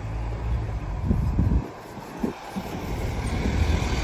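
Low steady rumble of a vehicle on the move, with a few knocks about a second in and a short drop in level around the middle.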